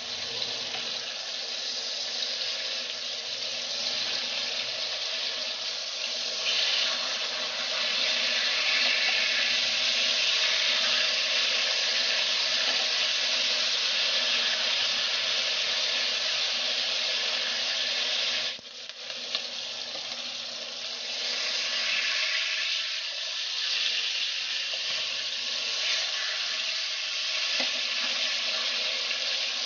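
Pork chops sizzling in hot oil in a frying pan, a steady hiss with the oil spitting. The sizzle drops out for a moment about two-thirds of the way through, then comes back.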